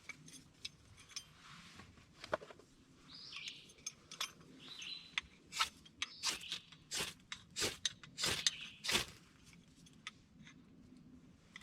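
A run of sharp crunching and cracking clicks, several a second, loudest toward the middle, over faint outdoor ambience with a few short chirps.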